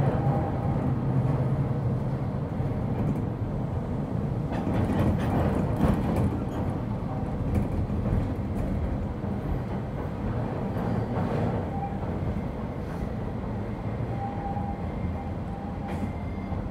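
Keihan 800-series electric train running into its terminus: a steady rumble of wheels on the rails with scattered clicks from joints and points. Faint, brief squeals come in the later seconds.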